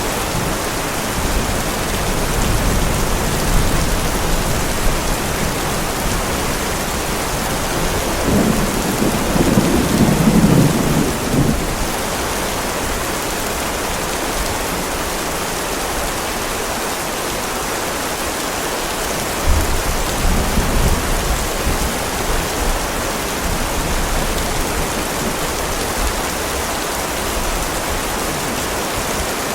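Heavy rain falling steadily in a thunderstorm, with rolls of thunder rumbling low: a loud roll about eight seconds in that lasts a few seconds, and a fainter one about twenty seconds in.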